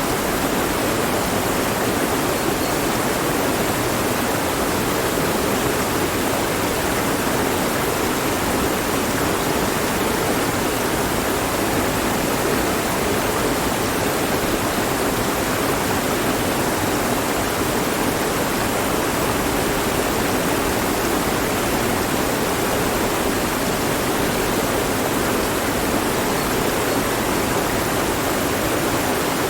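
Mountain stream flowing over rocks: a steady, even rush of water with no change in level.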